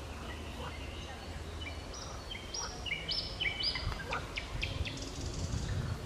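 Wild birds calling and singing. In the middle comes a quick run of clear whistled notes at several different pitches, among scattered shorter calls, over a steady low rumble.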